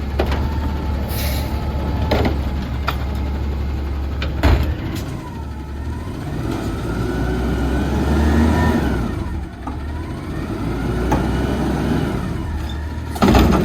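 Autocar ACX garbage truck's diesel engine running, revving up and back down twice. A sharp metal knock comes about four and a half seconds in, and a loud bang near the end.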